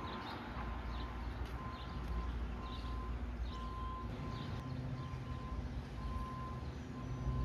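A railroad warning bell rings about once a second over a steady hiss of rain, with birds chirping. A low rumble swells about four seconds in.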